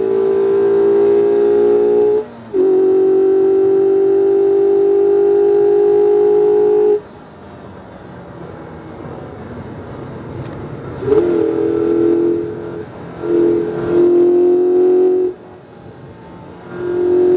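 2019 Mazda MX-5 RF's 2.0-litre four-cylinder engine pulling hard and steady, with a short break about two seconds in. It cuts off abruptly about seven seconds in, leaving only road and wind noise, then comes back about eleven seconds in, rising and falling with several short lifts of the throttle.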